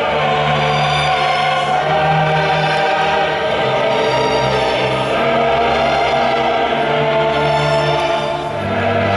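Choir singing with orchestral accompaniment: long held chords over a bass line that moves every second or so.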